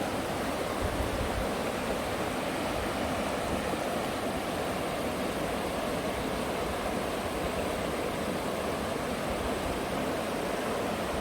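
Steady rush of river water from the Green River, a continuous even roar with no breaks.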